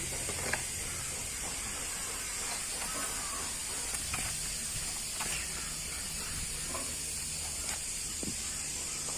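Steady hiss with a low hum underneath and a few faint clicks.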